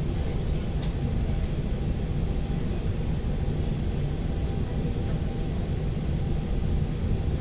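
Steady low rumble of an ŁKA 36WED electric multiple unit running, heard from inside the passenger car, with a faint steady hum over it.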